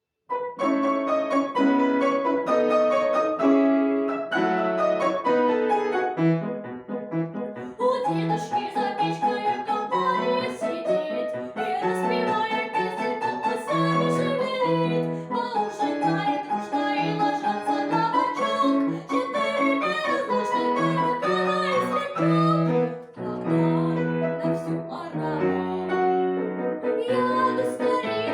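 Piano playing a lively piece of many quick notes, starting suddenly out of silence.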